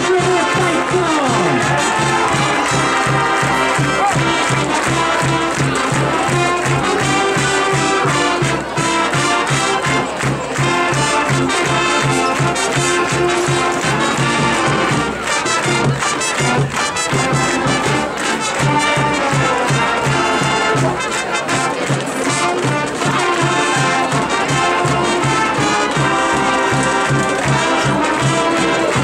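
Marching band playing: brass (trumpets and trombones) carrying the melody over a steady marching percussion beat.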